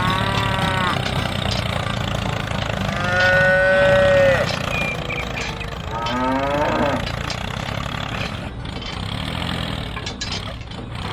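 Cattle mooing: three calls, the longest and loudest about three seconds in, over a steady low hum.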